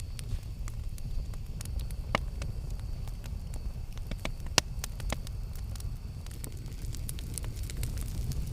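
Campfire burning with a steady low rumble and irregular sharp crackles and pops. The loudest pop comes about four and a half seconds in.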